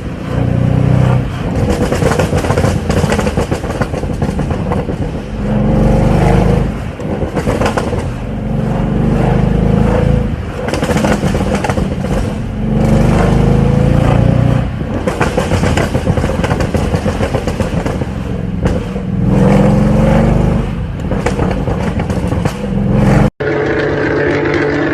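A vehicle engine revving hard and accelerating, its pitch climbing and falling back several times as it shifts up through the gears. Near the end there is an abrupt cut to a steadier, even engine drone.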